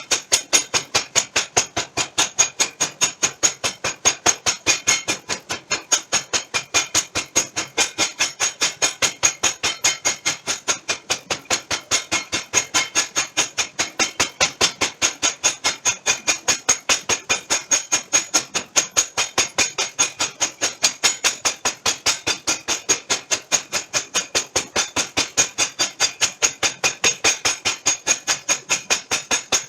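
Hammer blows on steel being forged, a steady run of about four strikes a second, each with a bright metallic ring.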